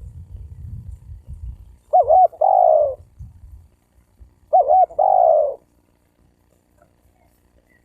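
Spotted dove cooing: two calls about two and a half seconds apart, each two quick notes followed by a longer drawn-out coo.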